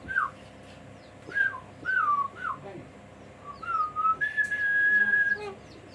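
Clear whistled notes: a few short falling whistles, then one long steady whistle about two-thirds of the way through.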